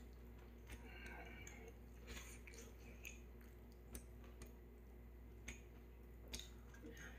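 Faint chewing of ramyeon noodles, with a few short, light clicks of a metal utensil against a metal pot lid.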